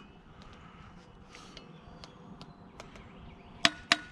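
Scattered light clicks and knocks of metal scrap parts being handled, then two sharp metallic clinks close together near the end, the second ringing briefly.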